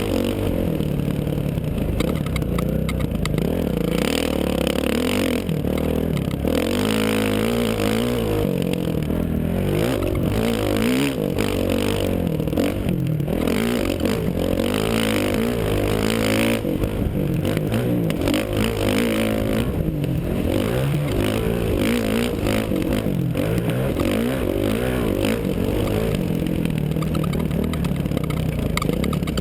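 Motocross dirt bike engine revving up and dropping back over and over as it is ridden around the track, the pitch rising and falling every few seconds.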